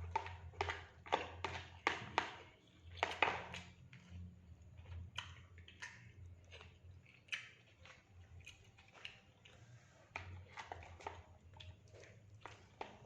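Close-up chewing and crunching of a mouthful of fried rice and fried rabbitfish: quick crunches about two to three a second for the first few seconds, then slower and softer. A low steady hum runs underneath.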